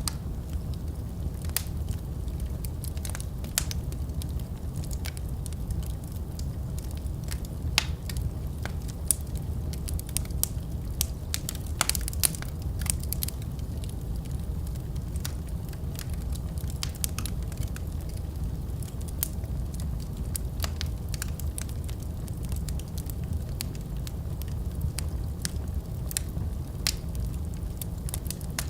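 Wood fire in a fireplace crackling: a steady low rumble of burning with many sharp, irregular pops and snaps, a flurry of louder ones partway through.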